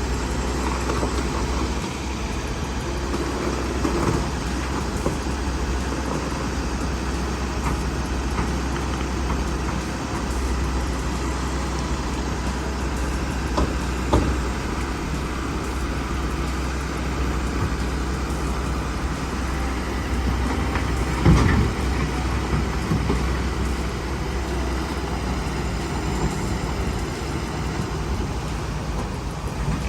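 Heavy vehicle engine running steadily with a deep low rumble, broken by a couple of brief knocks.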